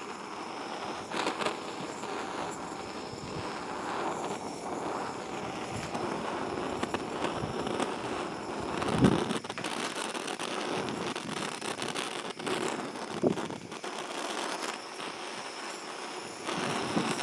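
Blowtorch flame hissing and sputtering unevenly as gusting wind disturbs it, with a crackly edge and two brief louder bursts, about nine and thirteen seconds in.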